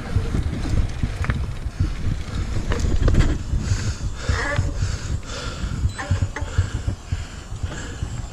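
Mountain bike rolling down a dirt trail: wind buffets the microphone over a low rumble, with scattered clicks and rattles from the bike over rough ground.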